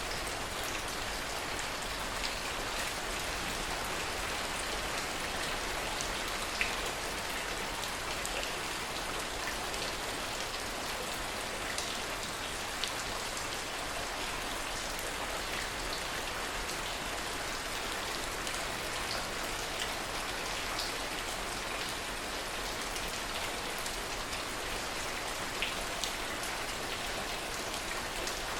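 Steady rain, with individual drops ticking sharply now and then.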